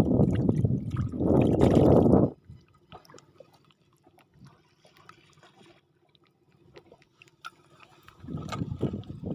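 Water sloshing and gurgling around a small fishing boat. It is loud for the first two seconds and stops abruptly. A quiet stretch with faint ticks follows, and the noise returns near the end.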